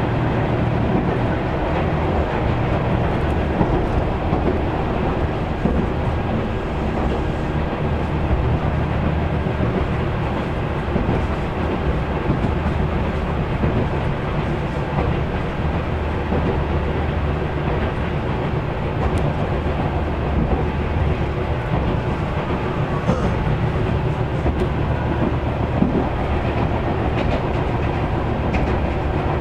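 Tobu 6050-series electric train running along the track, heard from inside the passenger car: a steady rumble of wheels and running gear with a few faint clicks from the track.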